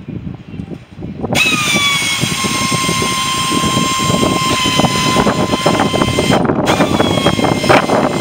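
Electric power tool switched on with a loud, rasping cutting noise, its motor whine dropping in pitch as it takes the load. It stops for a moment about two-thirds of the way through and starts again, the whine dropping once more.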